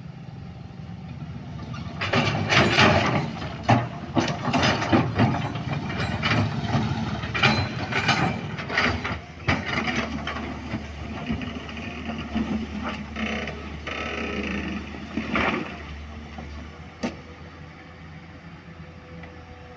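Heavy machinery at work: repeated metallic clanks and knocks over a steady low engine drone. The clanking thickens about two seconds in and dies away near the end, leaving the drone.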